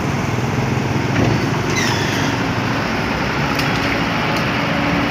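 Steady roadside traffic noise, with vehicle engines running at a constant level.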